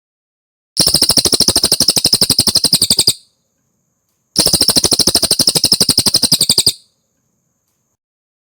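Cililin songbird song played as a masteran (tutor recording): two fast, even trills of about fifteen notes a second, each lasting about two and a half seconds, with a pause of just over a second between them.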